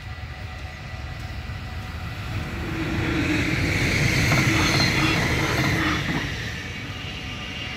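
A Stadler GTW diesel-electric multiple unit passes over the level crossing. Its engine drone and wheel noise build from about two and a half seconds in, are loudest around four to five seconds, with a few wheel clacks, and fade after six seconds. The crossing bells ring steadily underneath.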